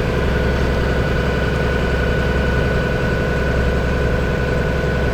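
Engine idling steadily: an even low rumble with a constant thin whine above it.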